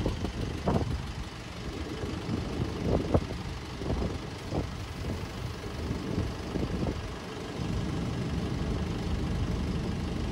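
Double-deck electric suburban train rolling past: a steady low rumble with a few short knocks in the first five seconds.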